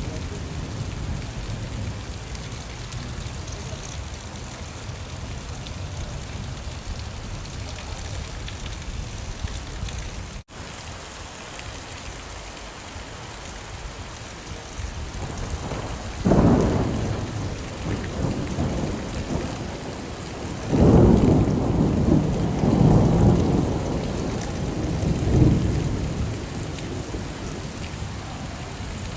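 Steady heavy rain, with rolls of thunder: a sudden one about sixteen seconds in, and a longer, louder rumble starting about five seconds later. The rain cuts out for an instant about ten seconds in.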